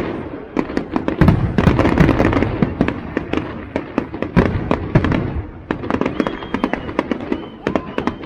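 Fireworks exploding in quick succession: a dense run of sharp bangs and crackles, heaviest about a second or two in, with a thin whistling tone over the bangs near the end.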